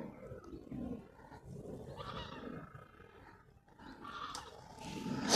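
Low, uneven rumbling noise rising and falling, typical of wind buffeting the microphone outdoors, with a couple of soft breathy hisses.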